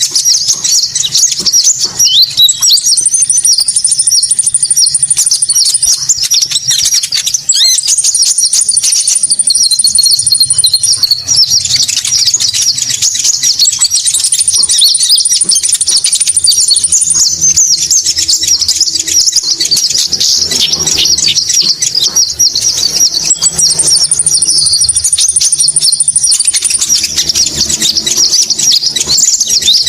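Konin bird calls played as a lure recording: dense, rapid high-pitched chirping throughout, with a thin, even higher trill about three seconds long that comes four times.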